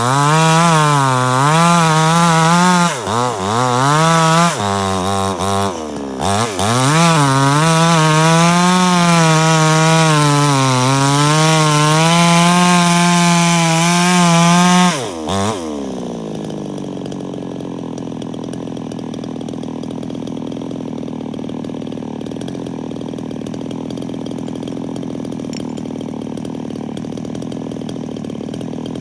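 Two-stroke chainsaw running near full throttle, its pitch dipping and recovering several times. About fifteen seconds in the revs drop suddenly and it settles to a steady idle.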